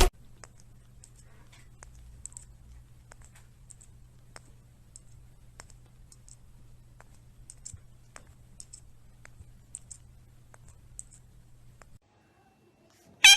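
Faint, irregular light clicks and taps over a low steady hum. The hum cuts off about twelve seconds in, and a brief loud, sharp sound falling in pitch comes at the very end.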